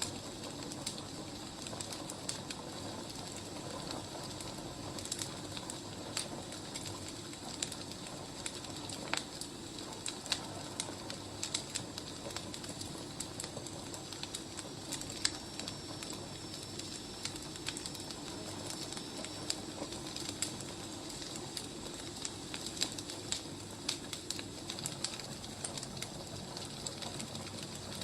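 Wood fire crackling: a steady hiss with irregular sharp pops and snaps. A faint, thin, high whistle holds for about five seconds midway.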